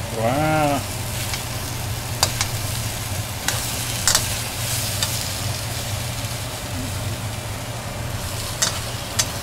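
Chicken of the woods mushrooms frying in a pan with a steady sizzle, broken by a few sharp clicks.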